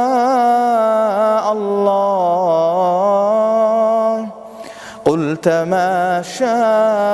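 A man's voice reciting the Quran in melodic tajwīd style, holding a long, ornamented note on the word "shā'a". About four seconds in there is a brief breath pause, and then the chanting resumes.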